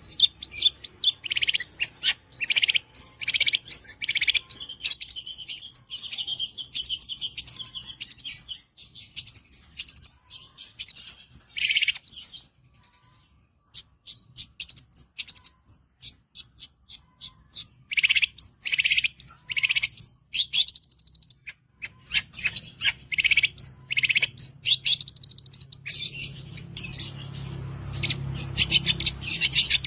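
Long-tailed shrike (cendet) singing a fast run of sharp chirps and trilled 'shot' phrases in quick bursts, with a brief pause about halfway through. A low steady rumble sits under the song in the last several seconds.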